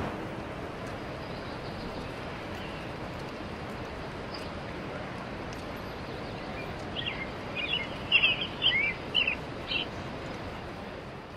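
Steady outdoor background hiss, with a small bird chirping in a quick run of short calls for a few seconds near the end.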